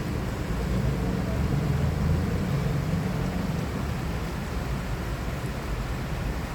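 Steady city ambience: a low rumble of road traffic with an even hiss over it.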